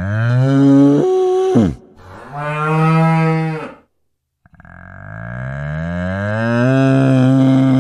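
Cow mooing: three long, loud moos. The first is already under way and ends with a sharp drop in pitch. The second follows after a brief gap, and a longer third moo begins about halfway through after a moment of silence.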